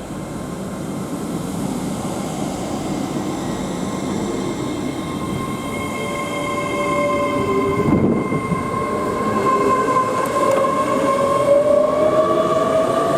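Great Western Railway Class 800 train pulling away, its drive whine climbing in pitch as it accelerates over a steady rumble of wheels on rail, growing louder. A short rush of noise comes about eight seconds in.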